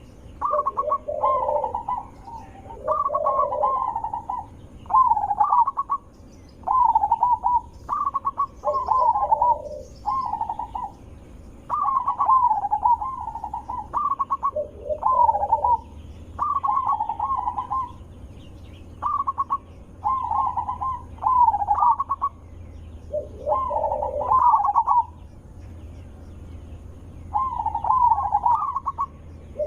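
Zebra dove (perkutut) cooing: short wavering phrases of coos repeated every second or two, with a pause of about two seconds near the end.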